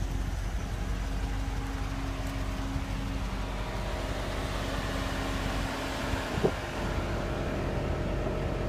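Dodge Challenger R/T's 5.7-litre Hemi V8 idling steadily, with a single short knock about six and a half seconds in.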